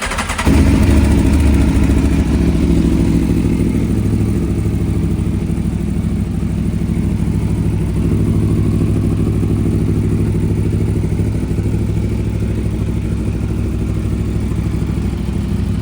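Aprilia Tuono V4 Factory's V4 engine, breathing through an Aprilia accessory exhaust, starting up: a brief crank, then it catches about half a second in. It runs a little louder for the first couple of seconds and then settles to a steady idle.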